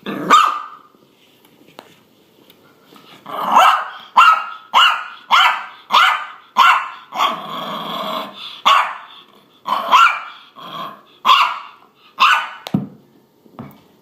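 A dog barking: one bark, a pause, then a fast run of about a dozen sharp barks roughly two a second. A longer drawn-out call comes midway.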